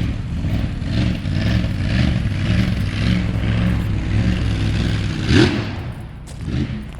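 A box truck's big-block V8 engine running and revving under throttle, with a short rising sound about five seconds in.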